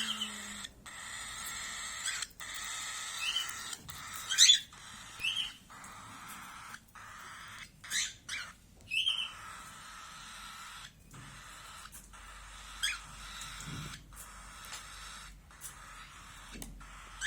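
Small cage birds chirping: short, high chirps every second or so over a steady twittering chatter, one louder chirp about four seconds in.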